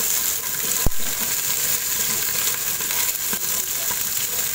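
Sliced onions and whole spices (cinnamon sticks, star anise) sizzling in hot oil in the inner pot of an electric pressure cooker, stirred with a wooden spatula, with a steady hiss. One sharp knock about a second in, likely the spatula striking the pot.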